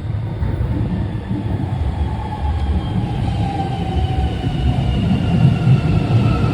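Electric suburban train running into the platform: a heavy low rumble with a faint whine that slowly falls in pitch as it slows.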